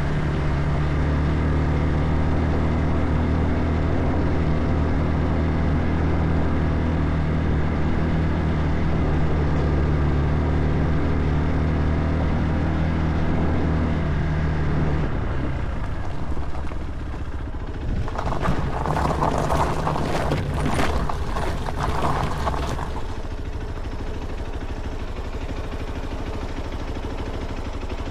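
Motorcycle engine running at a steady pitch that drops away about halfway through. A few seconds of louder, noisy rushing follow, then a lower steady hum.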